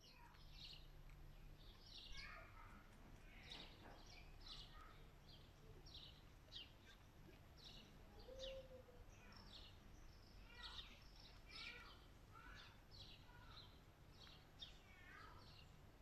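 Faint birdsong: small birds chirping, short high notes repeated about twice a second.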